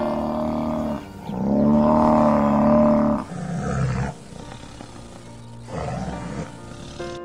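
Buffalo bellowing: two long, loud, steady-pitched calls, the second ending about three seconds in, over background music. After them come quieter, shorter animal sounds, with a brief louder one about six seconds in.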